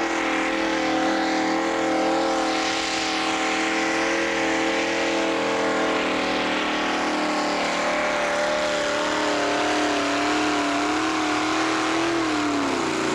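Super-modified pulling tractor's engine held at high revs through a pull, a steady drone. Near the end the revs drop away as the pull ends.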